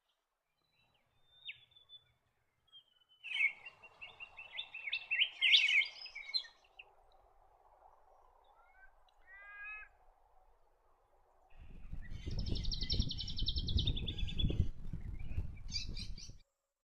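Wild birds calling and singing in separate bursts of chirps, with a short series of rising notes in the middle. Near the end a rapid high trill runs over a low rumbling noise and then cuts off suddenly.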